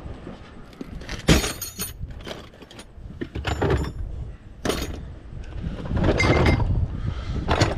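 A series of sharp metal clanks and clinks, about five over several seconds; the first, about a second in, rings on briefly.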